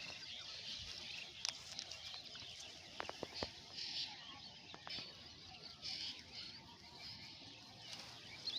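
Faint open-air ambience with scattered bird chirps and a few small clicks and rustles.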